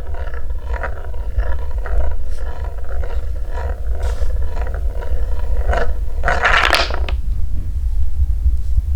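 Wooden balls rolling along a wooden marble-run track: a steady low rumble with a run of light clacks and knocks, then one loud clatter about two-thirds of the way through, after which only the rolling rumble goes on.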